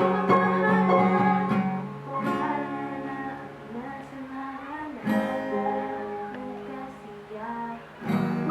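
Acoustic guitar strumming slow chords, each struck and left to ring out and fade, about every three seconds.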